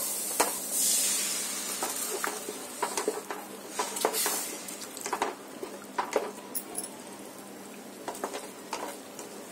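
Water hitting hot frying onion-tomato masala in a kadhai: a burst of sizzling about a second in that slowly dies down. A spatula scrapes and taps against the pan throughout.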